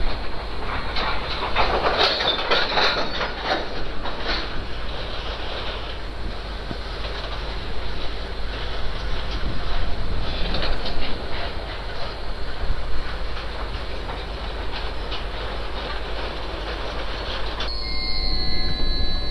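Freight train wagons rolling past on the rails with a steady rumble and clattering wheels. Near the end the train noise stops abruptly, leaving steady high-pitched tones.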